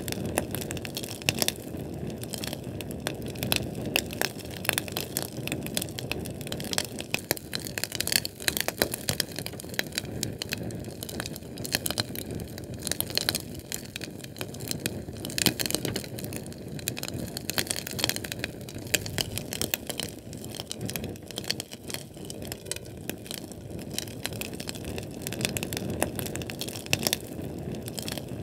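Fire burning with dense, irregular crackles and pops over a steady low rush of flame.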